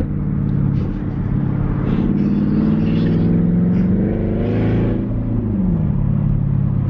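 A 2011 Jaguar XK's naturally aspirated 5.0-litre V8 with its mufflers deleted, accelerating on the road with a deep exhaust rumble. The engine pitch climbs for about three seconds, drops away around five seconds in, then holds steady. The engine is not yet fully warmed up.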